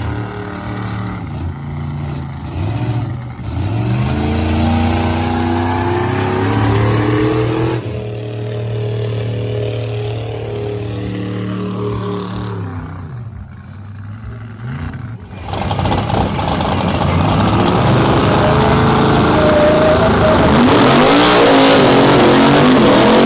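A truck engine revving hard, its pitch climbing and dropping several times. About fifteen seconds in the sound breaks off, then comes back louder with the engine held at high revs.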